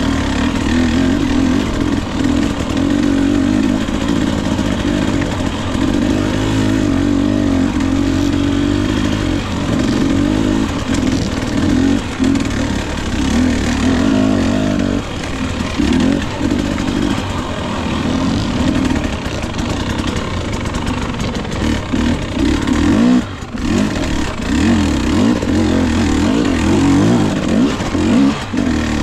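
2021 Husqvarna TE 250i two-stroke dirt bike engine running under load, its revs rising and falling continually as the bike is ridden, with a brief dip in engine noise about three-quarters of the way through.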